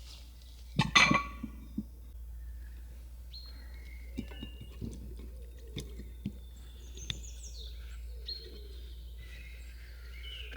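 Birds chirping with short whistled notes, a loud clink that rings briefly about a second in, and a few lighter knocks.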